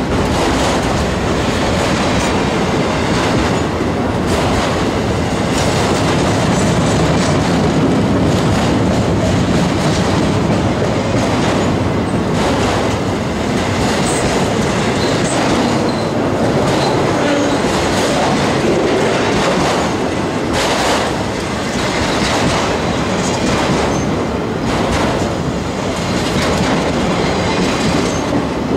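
Freight train of autorack cars rolling past close by: a steady rumble of steel wheels on rail with a repeated clickety-clack as the wheels cross rail joints.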